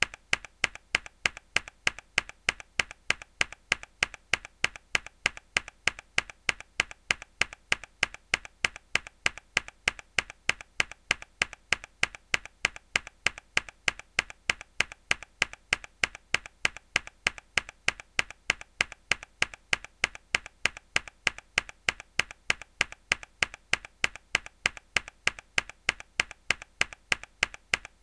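A single hard key press on a mechanical keyboard, looped: the same sharp click repeats evenly, about three times a second.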